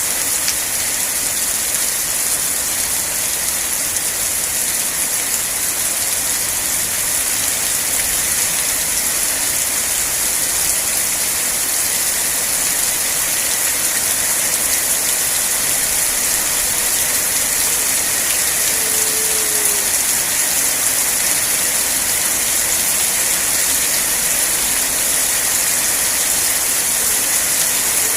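Steady heavy rain falling, an even, constant hiss.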